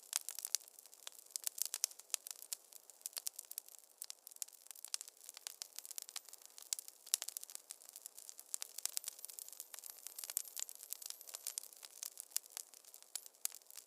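Fireplace fire crackling: a dense, irregular run of sharp pops and snaps, with no low rumble beneath it.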